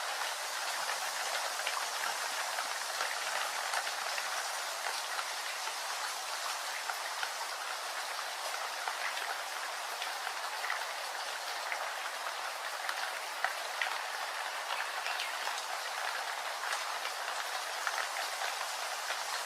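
Steady rain falling, an even hiss with many scattered drops ticking close by.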